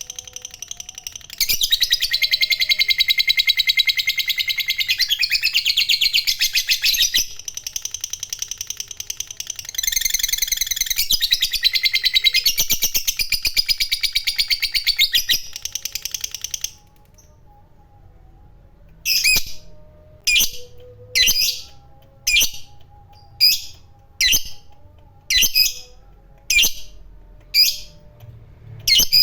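Lovebird chattering in long, rapid, high-pitched trills (the 'ngekek panjang' call) for over half the time with a few short breaks, then after a brief pause giving single sharp chirps about once a second.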